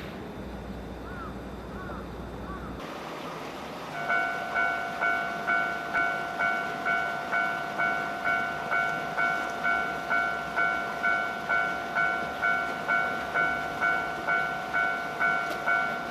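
Railway level-crossing warning bell starting about four seconds in, ringing evenly at about two strikes a second. Before it, a low steady hum stops abruptly about three seconds in.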